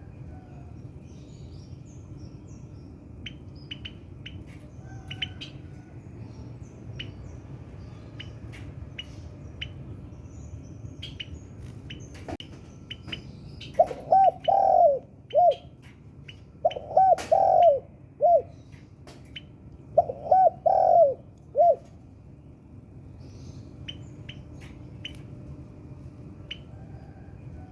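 Spotted dove (tekukur) cooing: three loud phrases of several low, rounded coo notes a few seconds apart, around the middle of the stretch. Short high chirps from small birds sound on and off throughout.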